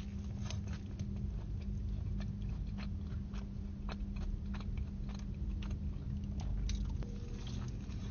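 Close-miked chewing of a burger, with irregular wet mouth clicks and soft crunches.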